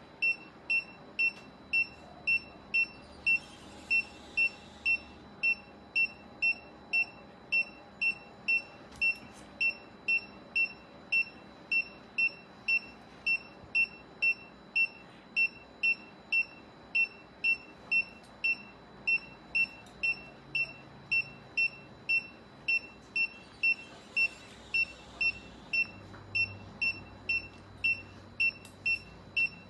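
Surgical patient monitor beeping steadily, one short high beep about every 0.6 seconds, the pulse tone following the anaesthetised cat's heartbeat.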